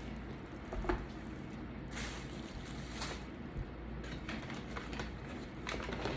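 Close-up eating sounds: wet chewing and mouth smacks, with a few short sharp clicks over a low steady hum.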